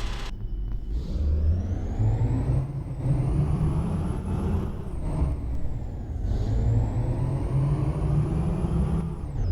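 Ashok Leyland truck's diesel engine pulling through the gears. A high whine climbs steadily, drops at a gear change about five seconds in, then climbs again.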